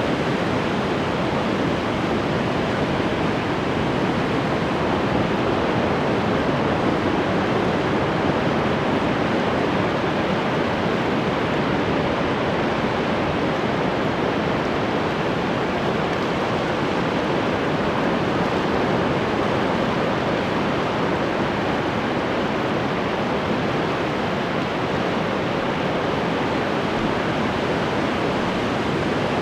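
Ocean surf washing continuously onto the shore: a steady, even rush of water with no single wave crash standing out.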